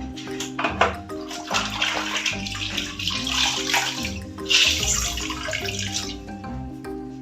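Water running and splashing, as in washing, for a few seconds, loudest about halfway through, over background marimba music.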